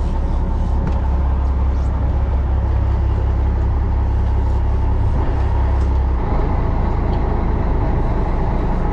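Fishing boat's inboard engine running with a steady low drone; its low hum changes slightly about six seconds in.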